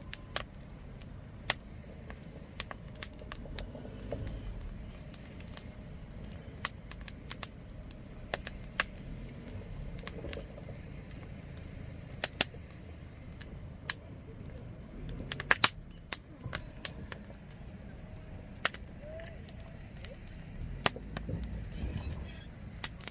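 Wood campfire crackling: irregular sharp snaps, a few a second and uneven in strength, over a steady low rumble.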